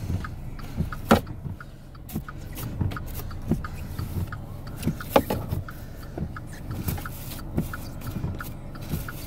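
Car engine running steadily, with a light, regular ticking throughout and a few sharp knocks.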